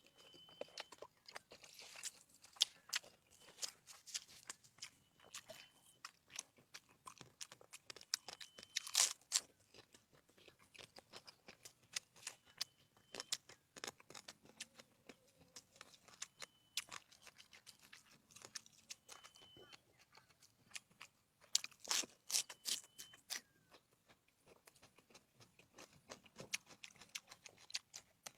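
Close-miked eating: chewing and crunching, heard as a run of sharp wet clicks. The loudest clusters come about 9 seconds and 22 seconds in.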